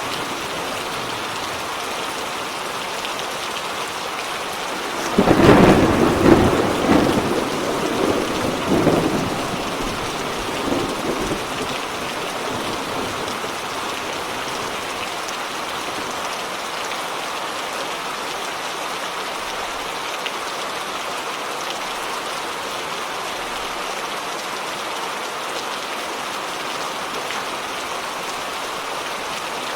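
Steady heavy rain with a clap of thunder about five seconds in that rumbles on for several seconds before fading back into the rain.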